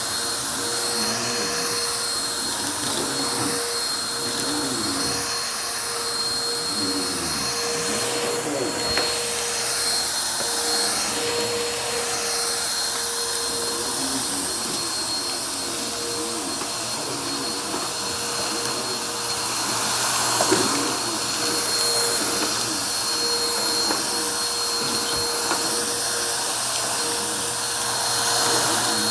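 Vacuum cleaner running steadily, its motor holding a constant whine over the rush of air, with the air sound swaying slowly as the machine is worked and growing a little louder about two-thirds of the way through.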